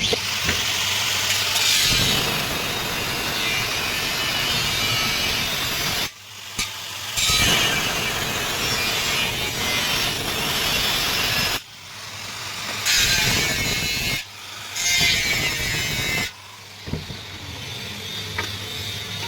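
A tool cutting into an aluminium door profile, running in stretches of several seconds with short breaks about six, twelve, fourteen and sixteen seconds in.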